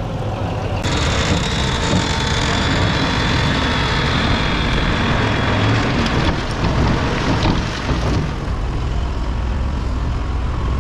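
Bulldozer's diesel engine running steadily at working speed, with a faint high whine over it from about a second in until about seven and a half seconds.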